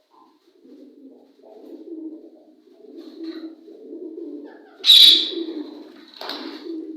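Pigeons cooing in a low, continuous murmur, broken by a loud, shrill bird call about five seconds in and a shorter one just after six seconds.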